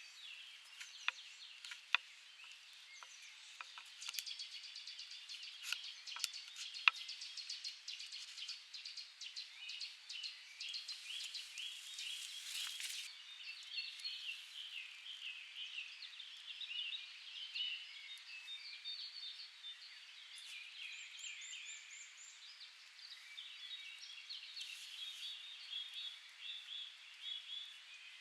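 Wild birds singing and calling, many short chirping notes overlapping throughout, with a few sharp clicks in the first seven seconds.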